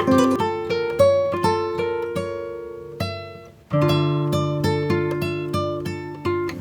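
Background music: a solo acoustic guitar picking a slow melody, each note ringing and fading, with a brief pause about three and a half seconds in before the next phrase.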